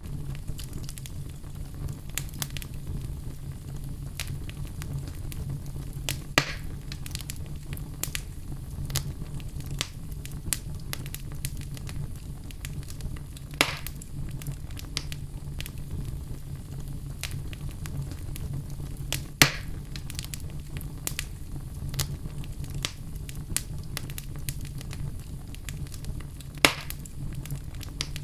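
Wood fire in a fireplace crackling, with a steady low rumble under a scatter of small snaps. Four louder pops stand out, spread several seconds apart.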